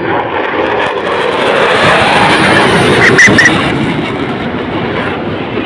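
Fighter jet passing low overhead: the loud rushing noise of its jet engine swells to a peak about three seconds in, then begins to fade as it moves away.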